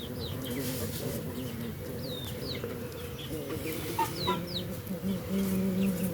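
Chickens clucking in a low, continuous murmur, with short high chirps from small birds mixed in.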